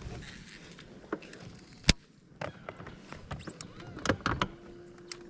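Handling noise of fishing tackle in a boat while a small bass is reeled in: one sharp click about two seconds in, then scattered lighter clicks and knocks, and a brief steady hum near the end.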